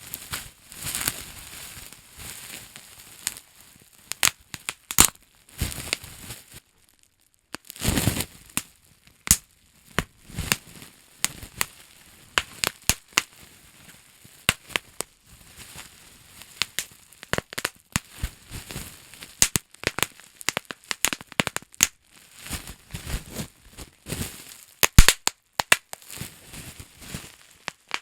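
Plastic bubble wrap being handled and popped: irregular sharp pops among crinkling of the plastic.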